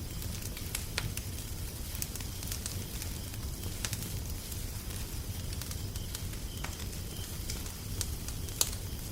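Wood fire crackling: irregular sharp pops and snaps, one louder pop near the end, over a steady low rumble.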